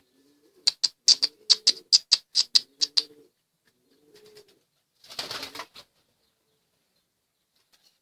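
Domestic pigeons cooing, with a run of about ten sharp wing claps in the first three seconds and a brief flurry of wing flapping about five seconds in.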